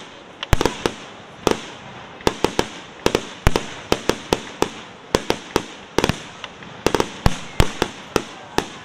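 Underwater fireworks on a reservoir going off in a rapid, irregular string of sharp bangs, several a second, over a steady crackling hiss.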